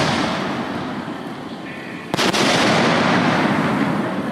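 A fireworks shell going off with a sharp, loud bang about two seconds in, followed by a long rolling boom that fades away. The rumble of an earlier blast is still dying away at the start.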